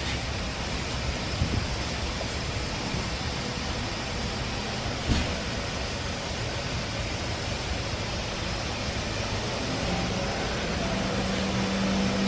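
Automatic car wash undercarriage spray: a steady rush of water jets hitting the underside of the car. A steady low hum joins near the end.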